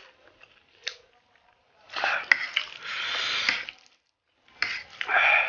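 Noodles slurped in two long noisy slurps, the first about two seconds in and the second starting near the end, after a couple of faint clicks.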